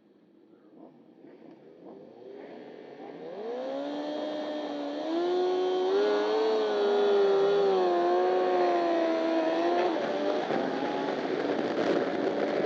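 Onboard Honda CBR1000RR superbike's inline-four engine: faint at first, the revs climb about three seconds in and are held high with a wavering pitch for several seconds. About ten seconds in it turns rougher and noisier.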